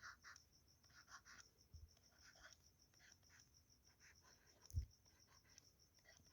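Faint scratching strokes of handwriting as the equation is written out, over a faint, fast-pulsing high-pitched tone. There is a soft low thump a little before the end.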